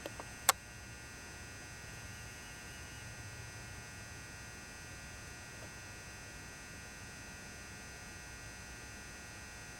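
Steady faint electrical hum and buzz with thin high tones, from a lit 400-watt mercury vapour lamp and its ballast. A single sharp click about half a second in.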